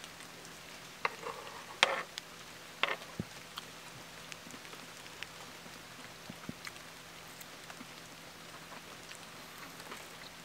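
Steady patter of rain, with a few sharp clicks of a knife and fork against a wooden cutting board in the first three seconds or so.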